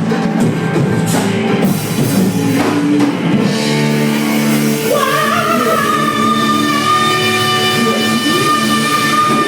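Live rock band playing: drum kit, bass and electric guitar with singing. About halfway through, a long high note is held over the band.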